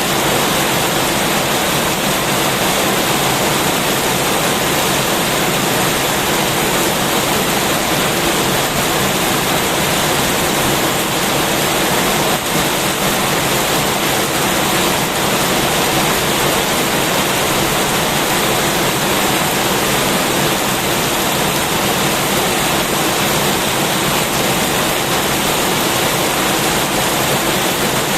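Heavy rain pouring down steadily: a loud, dense, unbroken hiss.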